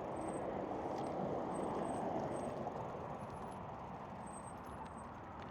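Steady wind and tyre noise from riding an electric recumbent bike on a paved path, swelling slightly then easing, with a few faint, short, high chirps.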